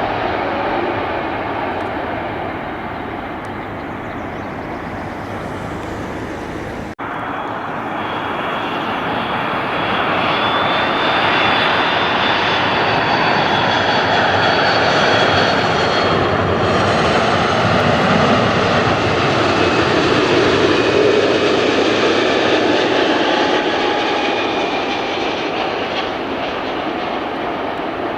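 Jet airliner's engines passing: a steady rushing noise that builds to a peak and then fades, with a high whine that slowly drops in pitch. The sound breaks off briefly about seven seconds in.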